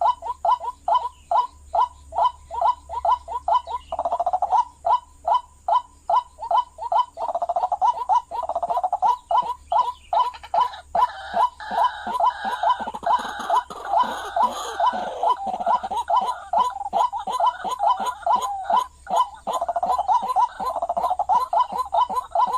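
White-breasted waterhen calling: a long, rhythmic run of repeated croaking notes, about three a second, with stretches where more calls overlap into a denser chorus.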